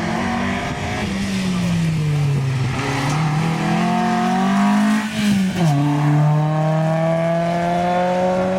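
Rally car engine on a gravel special stage, revving hard and changing gear, its pitch climbing and falling several times with a sharp drop about five and a half seconds in before it climbs steadily again.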